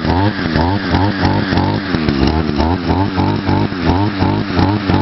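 Echo SRM-2100 string trimmer's small two-stroke engine running just after a cold start, its speed wavering up and down about three times a second. It is running with the choke off; the owner says it would die with the choke on.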